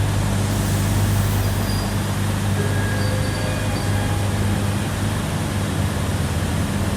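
Steady low hum with an even rush of air noise inside an airport-train carriage standing at the platform before departure.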